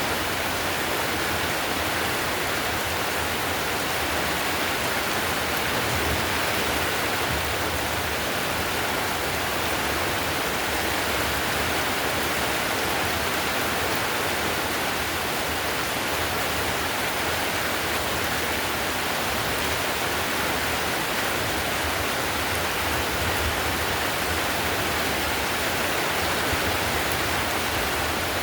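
Heavy rain falling on a tiled roof: a steady, even hiss that holds the same level throughout.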